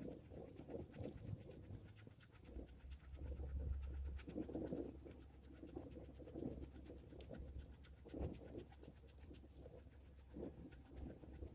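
Small wood fire crackling faintly in scattered clicks, under irregular gusts of wind buffeting the microphone, with a low rumble strongest a few seconds in.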